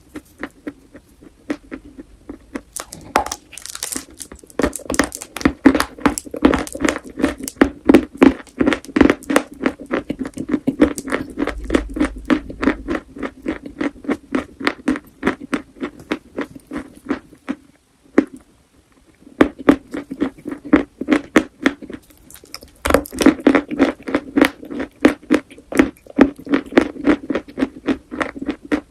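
Close-miked crunching and chewing of chalk: crisp crunches come several a second, with a short lull about two-thirds of the way through.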